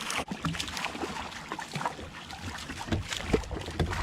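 Irregular knocks, clicks and rattles against a plastic fishing kayak as the angler handles a freshly landed trout and his gear.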